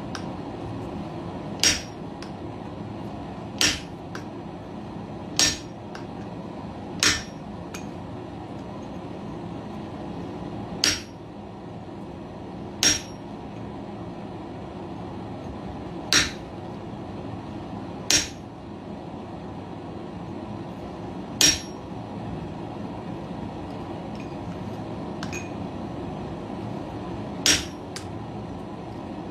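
Blacksmith's hammer striking a hand-held spring-steel fuller to groove hot steel on the anvil: about ten single, ringing metal blows, spaced unevenly a second and a half to several seconds apart, over a steady background noise.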